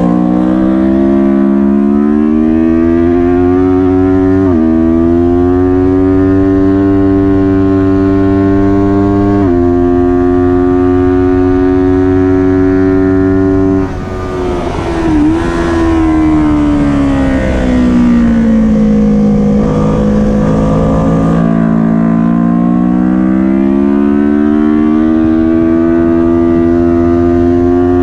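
Kawasaki Ninja 400 parallel-twin engine at race pace, its pitch climbing and then dropping suddenly through upshifts about 4.5 and 9.5 seconds in. Around 14 seconds in the throttle closes and the revs fall away, bottoming out around 20 seconds before the engine pulls up through the revs again near the end.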